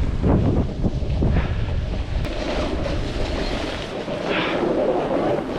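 Wind buffeting a body-mounted camera's microphone during a snowboard run, a heavy noisy rumble that eases in the lows about four seconds in.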